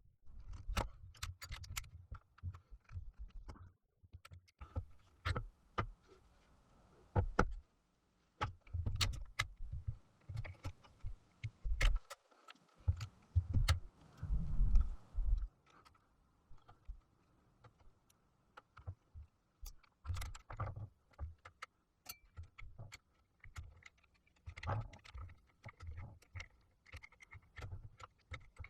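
Irregular clicks, taps and light knocks of small hard objects being handled, with a faint steady hum underneath.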